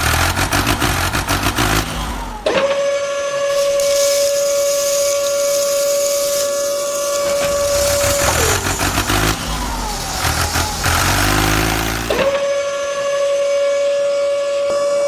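Small electric motor whining at a steady high pitch, then winding down as it is switched off. It runs a second time near the end and winds down again.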